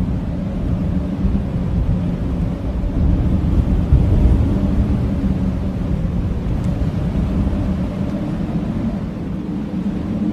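Blizzard wind blowing hard: a steady deep rumble of gusts with a low, even howl running through it, surging slightly about four seconds in.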